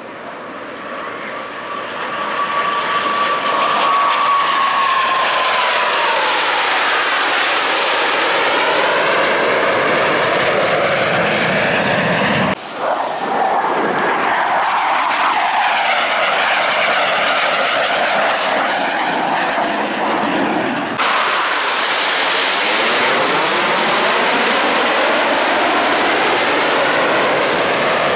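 Blue Angels F/A-18 Super Hornet jets flying past, the engine noise swelling over the first few seconds and then holding loud, with a whine that falls in pitch as the first pass goes by. The sound changes abruptly twice, once near the middle and once about two-thirds through, as the footage is cut to further passes.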